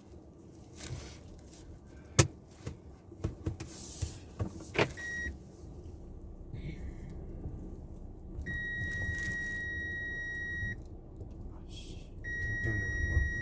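Several sharp clicks and knocks in a car cabin, then a steady high electronic warning tone that sounds twice, about two seconds each time, over a low engine and cabin rumble.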